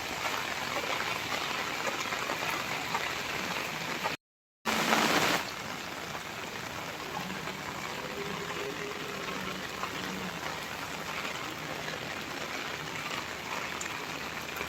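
Steady rain falling and pattering on surfaces. The sound drops out completely for a split second about four seconds in, then comes back louder for about half a second.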